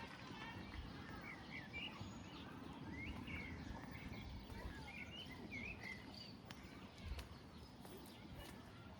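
Small songbirds chirping in short, quick calls over a steady low hum of outdoor background noise; the chirps thin out in the last few seconds.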